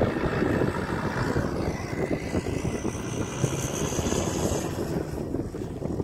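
Four-wheel-drive vehicle engine running on soft sand.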